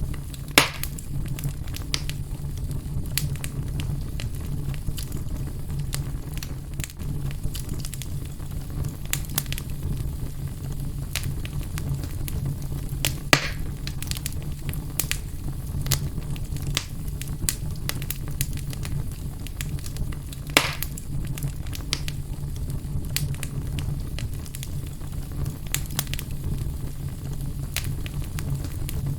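Fire burning in a fireplace, crackling steadily with a low rumble underneath and three louder pops: one just after the start, one near the middle, one about two-thirds through.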